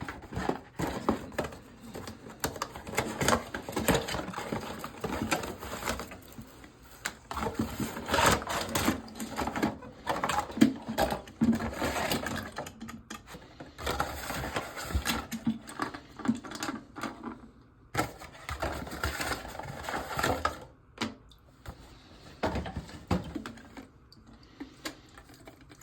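Rapid clicking, crackling and rattling of a new plastic toilet fill valve and its packaging being handled and unpacked. It comes in stretches of a few seconds with short pauses between them.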